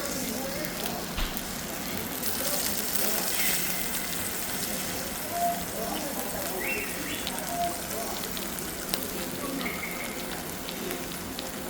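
Steady sizzling hiss with scattered pops from whole chickens roasting over a wood fire.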